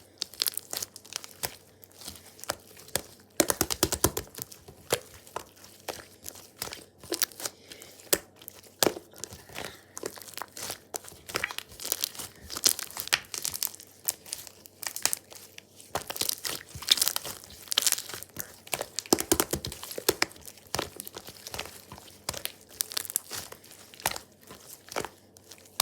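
Paper being handled close up while crafting: irregular runs of crinkling, rustling and tearing, with short sharp crackles throughout.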